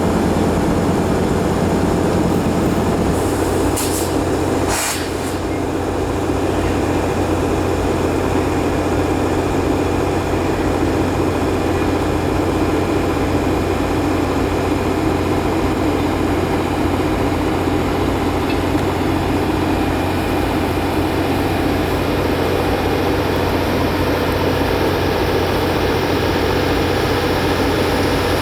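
Steady, loud running of a diesel train locomotive, with a couple of short clicks about four to five seconds in.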